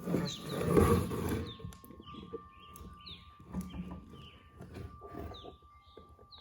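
A bird chirping repeatedly in short high calls, about two a second, after a brief burst of handling and clattering noise in the first second or so.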